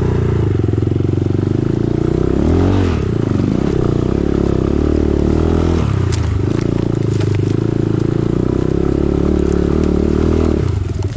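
Single-cylinder dirt bike engine revving hard under load on a hill climb, the revs rising and falling with the throttle, with a few sharp clatters partway through. Near the end the throttle comes off and it drops to a slower, pulsing idle.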